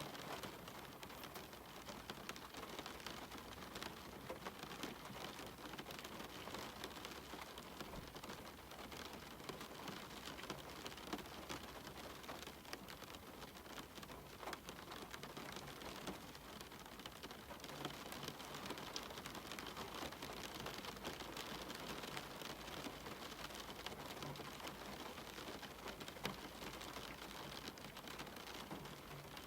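Steady rain falling, an even hiss dotted with many small ticks of individual drops landing.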